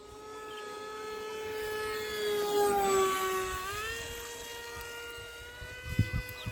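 Radio-controlled model F-22 Raptor plane's motor whining as it flies past, growing louder to a peak about three seconds in and then fading, its pitch stepping up just after the peak. A couple of low thumps near the end.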